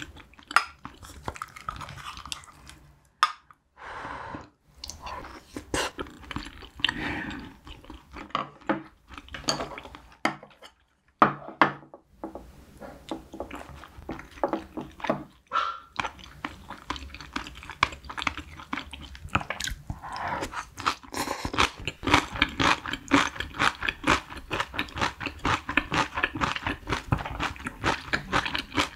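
Close-miked chewing and eating sounds, with wooden utensils clicking against a small steel bowl. From about twenty seconds in the chewing turns dense and crunchy, as of fresh cabbage kimchi.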